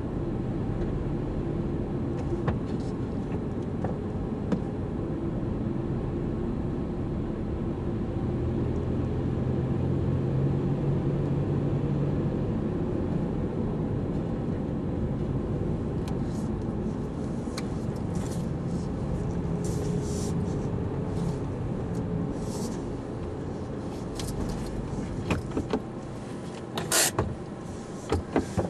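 A car driving, with a steady low road and engine rumble. It eases off near the end, with scattered sharp clicks and crackles.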